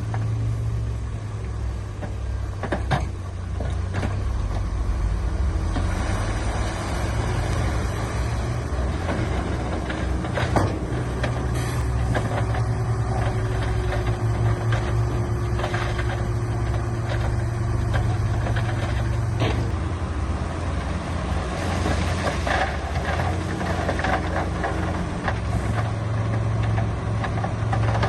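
Diesel engine of heavy earthmoving machinery running steadily, with a few short knocks and clanks.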